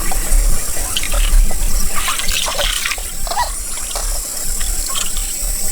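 Pond water sloshing and splashing in irregular bursts as someone moves through it, busiest about two to three seconds in.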